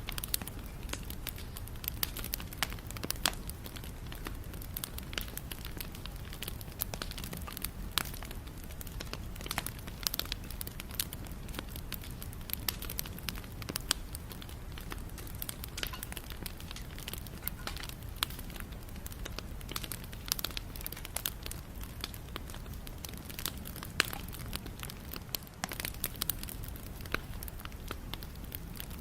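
Wood fire burning, with a steady low rumble and frequent irregular crackles and pops from the burning wood.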